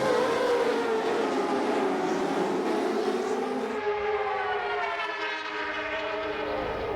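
Race-tuned sportbike engines revving high, one steady pitched wail that dips and rises with the throttle.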